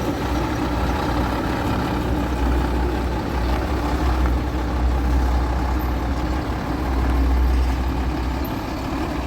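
Heavy diesel truck engine running steadily at idle, a deep low rumble that swells for a few seconds and eases slightly near the end.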